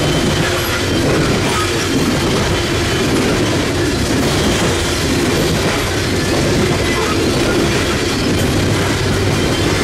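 Loaded coal hopper cars of a Norfolk Southern freight train rolling past: a loud, steady rumble of steel wheels on the rails.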